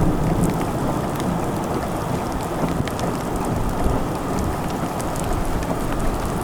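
Steady heavy rain falling during a thunderstorm, with scattered sharp ticks of individual drops striking a surface.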